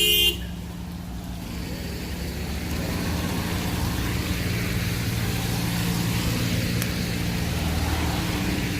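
A motor vehicle's engine running steadily under an even hiss that grows over the first few seconds. A short high tone cuts off just after the start.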